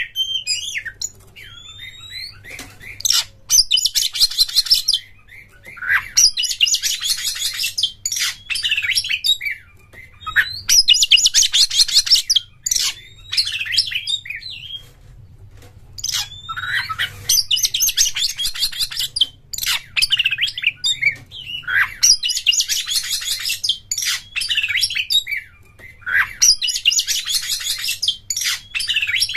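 Oriental magpie-robin (kacer) singing: loud phrases of fast, dense chattering trills about two seconds long, repeating every four to five seconds, with short whistles and rising slurred notes between them. This is the rapid 'konslet' chatter of a bird in full, excited song.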